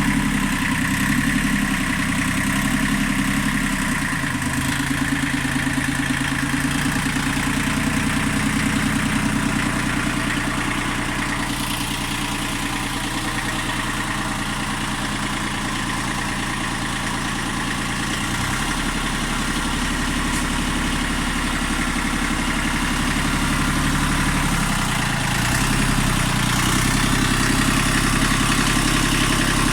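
Tractor engine running steadily at low revs, its note shifting in speed a few times: near the 4-second mark, around the middle, and again near the end.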